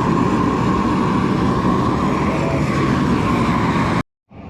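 Propane flamethrower torch roaring steadily as it heats frozen concrete, with a steady whine in the roar. It cuts off suddenly near the end.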